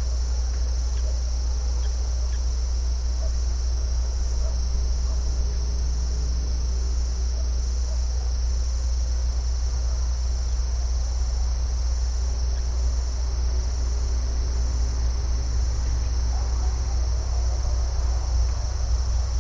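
A steady, unbroken insect chorus, high-pitched and constant, over a continuous low rumble.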